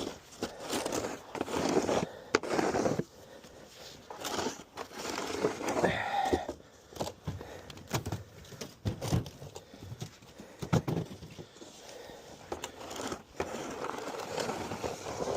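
Snow shovel scraping and pushing snow across an icy driveway. It comes as a run of irregular scraping strokes with a few sharp knocks of the blade.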